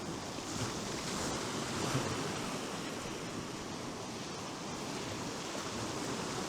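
Sea surf washing steadily on the shore, with some wind noise.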